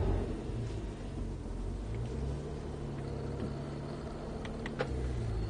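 Porsche 911 991.1 GT3's 3.8-litre naturally aspirated flat-six running at low revs as the car pulls away slowly, heard from inside the cabin as a low, steady rumble with small shifts in pitch. A couple of light clicks come near the end.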